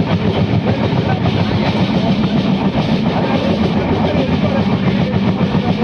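Tamil Nadu Express passenger train running on the rails: a steady, loud rumble with a fast, dense rattle.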